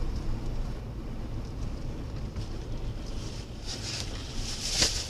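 Steady road and engine rumble of a moving car, heard from inside the cabin through a dashcam. Near the end comes a brief, sharp, hissing noise.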